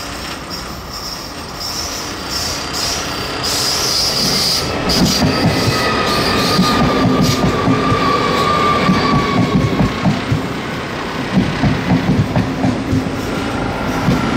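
Train running through a station, growing louder over the first few seconds. Its steel wheels squeal on the rails with thin high tones. From about five seconds in, a rhythmic clatter of wheels over rail joints and points comes in.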